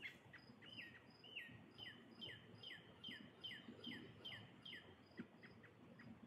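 Faint birdsong: a run of about a dozen clear notes, each sliding down in pitch, at two to three a second, growing weaker near the end. A higher, steady chirp repeats evenly behind it.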